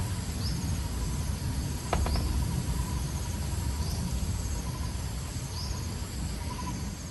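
Insects calling in the forest: a short rising chirp repeats about every second and a half, with a faint steady whine beneath, over a steady low rumble.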